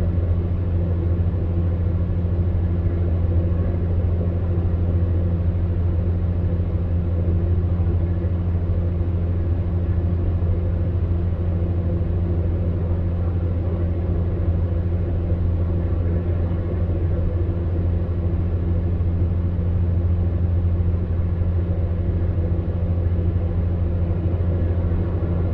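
Electric fan heater running steadily: an even low hum with a few faint steady tones above it, under a soft rush of blown air.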